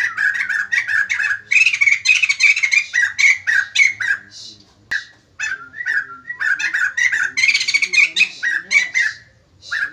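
White-crested laughingthrush giving loud, rapid chattering and cackling calls in dense bursts, with a short break about halfway through.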